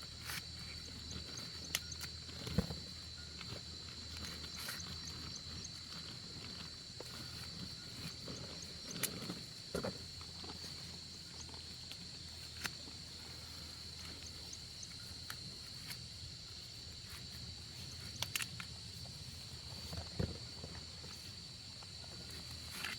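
A steady, high-pitched insect drone with faint ticking above it, with scattered sharp clicks and a few soft knocks and rustles over the top.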